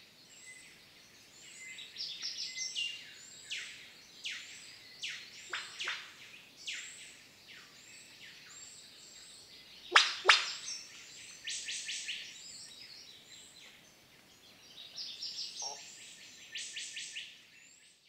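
Forest birds calling: many short chirps and quick falling notes, with one loud falling call about ten seconds in and a quick run of repeated notes near the end.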